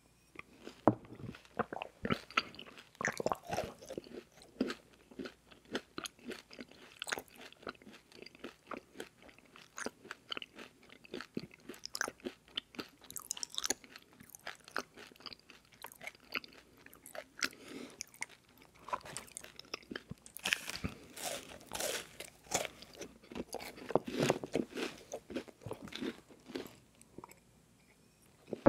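Close-miked chewing of crispy rice cereal treat bars: wet mouth sounds with dense, irregular crunching and crackling. It goes quieter briefly near the end.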